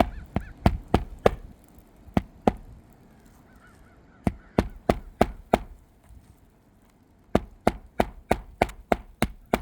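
Hammer driving roofing nails into an asphalt shingle: runs of sharp, quick strikes, a handful at the start, two more, then two longer runs of steady hammering.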